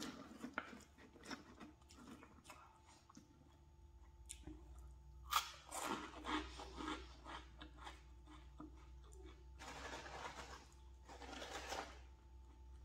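Crunching and chewing of crispy snacks by mouth, with two longer noisy stretches and small clicks between.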